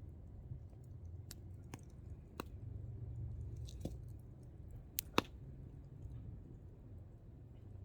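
Hardwood campfire burning, the firewood crackling with scattered sharp pops, the loudest a pair close together about five seconds in, over a low steady rumble.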